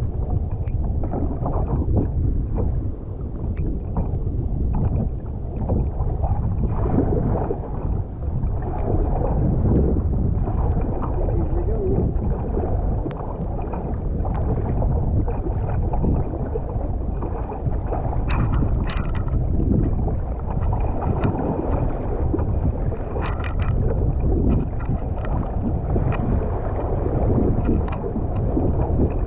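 Water rushing and sloshing around a kayak surfing waves, with wind rumbling on the microphone and scattered splashes. There are sharper splashes about 18 and 23 seconds in.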